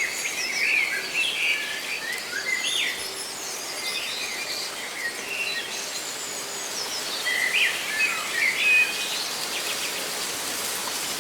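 Several songbirds chirping and trilling over a steady rustle of leaves, the calls bunching near the start and again a little after the middle.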